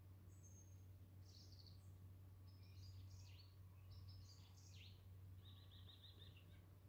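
Songbirds singing faintly: a string of short high whistled phrases and chirps, with a quick trill of about seven even notes near the end, over a low steady hum.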